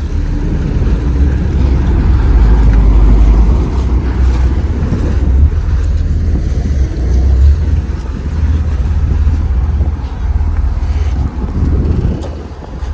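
Ferry under way: a steady engine and water rumble, with wind buffeting the microphone in uneven gusts.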